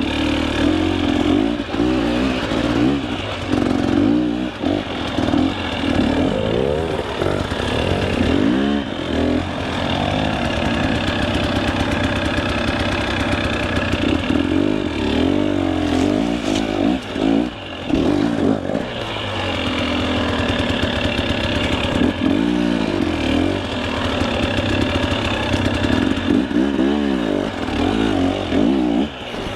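KTM 300 EXC two-stroke enduro dirt bike engine revving up and down over and over as the throttle is worked on and off, with brief drops where it is shut off, while the bike claws up a steep, technical climb.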